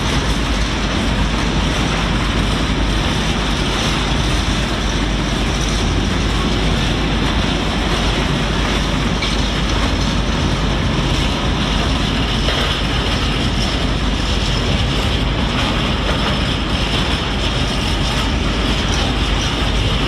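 A train rolling past on the main line, a steady, loud rumble of wheels on rail.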